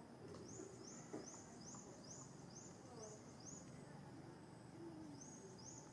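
A faint series of high chirps from a small animal, each rising and then held, about three a second for some three seconds, then two more near the end, over quiet outdoor background noise.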